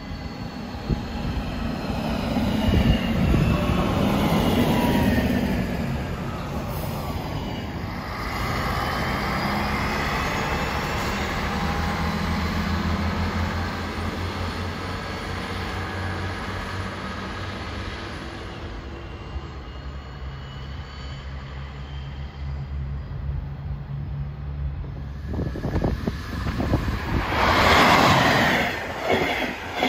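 A Bodensee-Oberschwaben-Bahn Class 650 diesel railcar passes close by, its engine tones sliding in pitch as it goes. A steady low diesel drone follows. Near the end a DB Class 218 diesel-hydraulic locomotive hauling double-deck coaches passes, the loudest part, with its wheels knocking in a regular beat over the rail joints.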